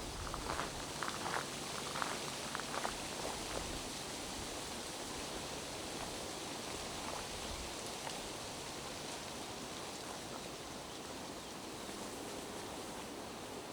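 Steady rain falling through the forest, an even hiss. Over the first few seconds, footsteps crunch on the wet trail, then stop.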